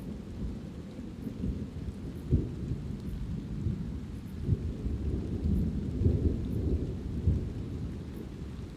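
Thunder rumbling low and unevenly over light rain, with a few sharper cracks in the rumble, the strongest about two seconds in and around six seconds.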